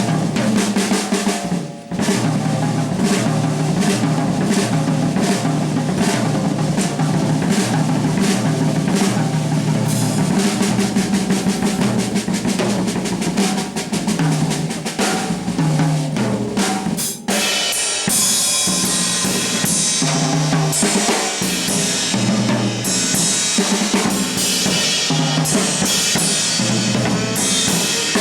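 Live jazz drum kit playing busily: snare rolls, rimshots and bass drum, with a low bass line underneath. About 17 seconds in the drums break off briefly, then come back with bright cymbal washes.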